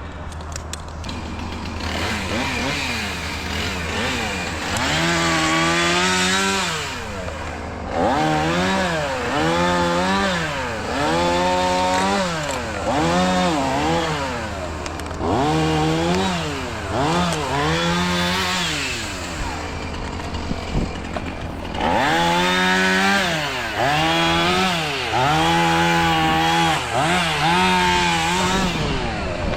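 Two-stroke chainsaw being throttled up and down in repeated bursts of a second or two, its pitch sagging and recovering as it cuts wood. A steady low engine drone runs underneath.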